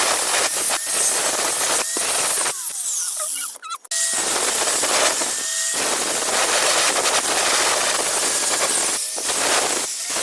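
Electric angle grinder grinding a rusty steel knife blade: a loud, harsh grinding noise over the motor's steady whine. It breaks off briefly several times and drops away almost to nothing about three and a half seconds in.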